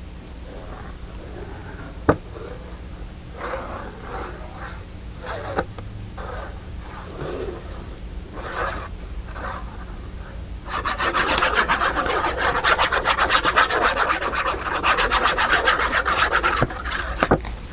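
Paper being handled and shifted, with a sharp tap about two seconds in. From a little past halfway comes a long run of quick, steady back-and-forth rubbing on paper, the loudest part.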